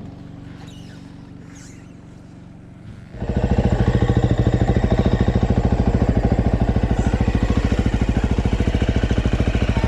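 Dirt bike engine idling, fainter at first, then loud and close from about three seconds in, with a steady, rapid, even firing beat.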